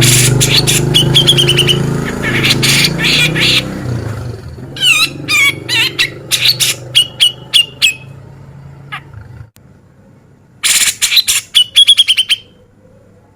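Cucak jenggot (grey-cheeked bulbul) singing hard in three bouts of sharp, harsh, rapid notes, several ending in a short held whistle. A low engine hum runs under the first few seconds and fades away.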